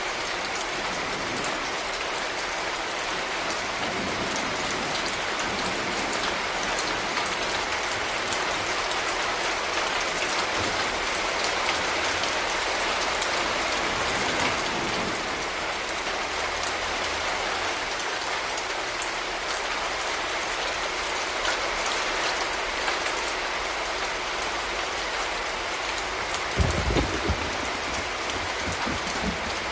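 Steady urban rain: a dense, even hiss of rainfall with many small drop ticks. Near the end comes a brief cluster of low thumps.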